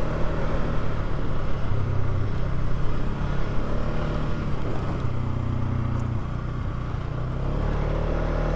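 Polaris ATV engine running under way, its pitch rising and falling a few times with the throttle.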